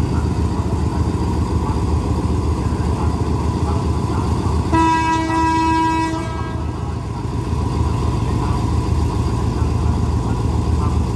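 A diesel passenger train stands with its engines at idle, a steady low rumble. About five seconds in comes one horn blast of about a second and a half, the train's signal before pulling out.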